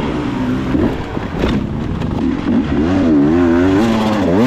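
Dirt bike engine running under changing throttle. Its pitch rises and falls repeatedly, wavering quickly for a second or so past the middle, then dips and climbs again near the end.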